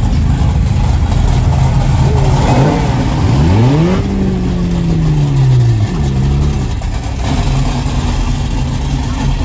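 A car engine revs once, about three seconds in: its pitch climbs quickly, then falls slowly back over a couple of seconds, over a steady low engine rumble.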